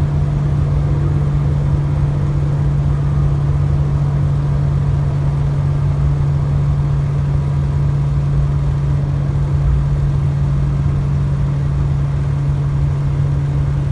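Heavy truck's engine running steadily at highway cruising speed, heard inside the cab, as a constant low drone over road rumble.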